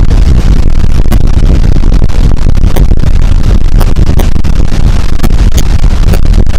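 Loud, steady low rumble on board a lake cruise boat, with scattered faint clicks.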